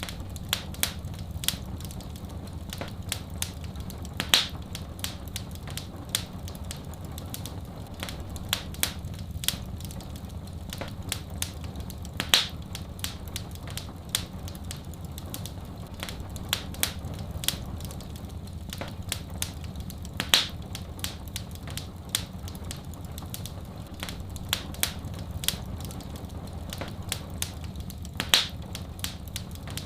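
Wood fire crackling in a fireplace: a constant scatter of small sharp snaps, with a louder pop about every eight seconds, over a steady low rumble.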